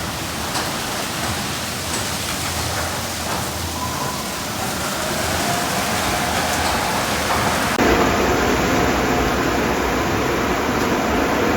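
High-pressure water spray from a Sonny's car wash tunnel beating on a car: a steady hiss of water that grows louder and fuller about eight seconds in.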